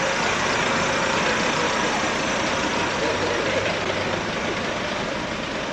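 Heavy lorry diesel engine running steadily.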